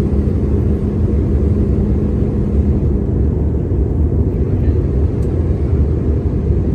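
Steady low rumble of a jet airliner in flight, heard from inside the passenger cabin. A faint steady hum under it stops about three seconds in.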